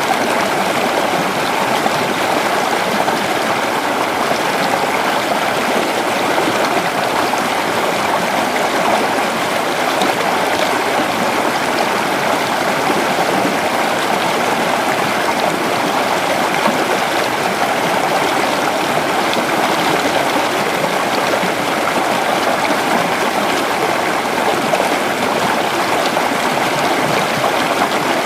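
Creek water running steadily over rocks, a continuous rushing and babbling.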